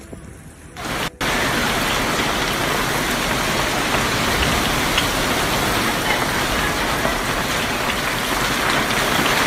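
Heavy rain pouring down in a steady, dense hiss that starts suddenly about a second in, after a faint low rush of floodwater.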